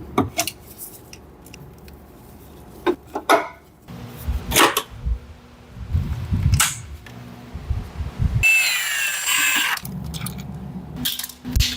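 Mechanic's tools clinking and knocking against metal, with a power tool running for about a second and a half some eight and a half seconds in, its whine falling in pitch.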